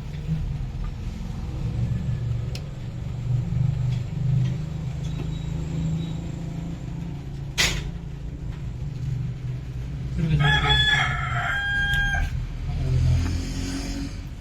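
A rooster crows once, a drawn-out call of about two seconds starting about ten seconds in, over a steady low rumble. A single sharp click comes a little before the middle.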